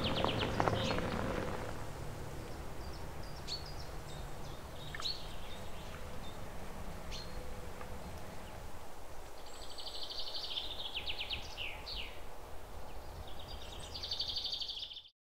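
Birds chirping and giving rapid trilling calls over a steady hiss of light rain, with a piano tune fading out in the first two seconds.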